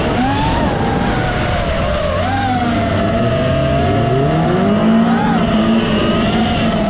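The high whine of an FPV racing drone's propellers wavers in pitch as the throttle changes, over race car engines running at high revs. About three seconds in, one engine's pitch climbs as it accelerates, then holds.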